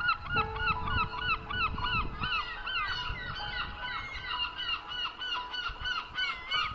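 A flock of seagulls calling: many short, overlapping cries in quick succession over a low rumble.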